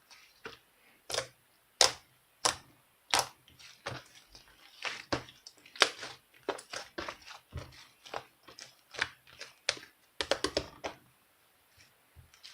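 Irregular series of sharp taps and clicks on a hard surface, with a quick cluster of taps near the end before it falls quiet.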